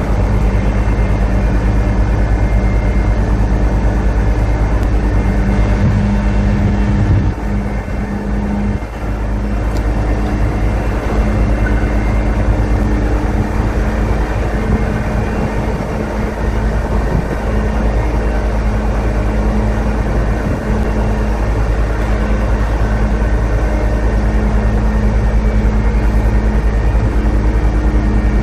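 Heavy construction machinery engine running steadily with a deep, even drone, which dips briefly about seven seconds in and then returns.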